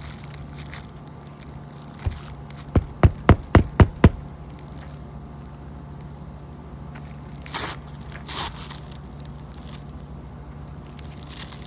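Hammer driving roofing nails into old asphalt shingles: a single tap, then a quick run of six blows at about four a second. Two short scraping sounds follow a few seconds later.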